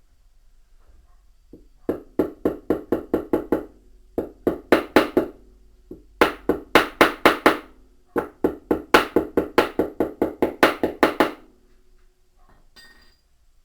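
Rapid hammer blows on metal in four runs of quick strikes, about five or six a second, each with a short ringing note.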